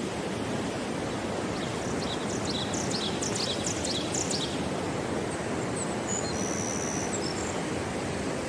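Steady outdoor rushing noise, like flowing water or wind, with birds chirping: a quick flurry of high chirps about two to four seconds in and a short high whistled note a few seconds later.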